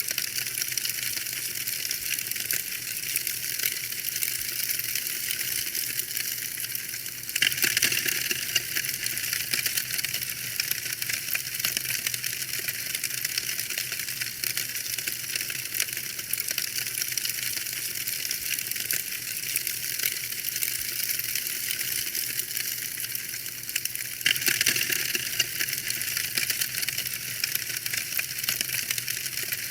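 Wood fire crackling steadily: a dense run of small pops and snaps over a hiss, getting briefly louder about a quarter of the way in and again near the end.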